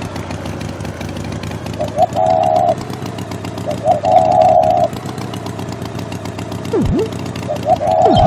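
Cartoon motor vehicle running steadily, with short pitched toots about every two seconds and a falling-then-rising swoop near the end.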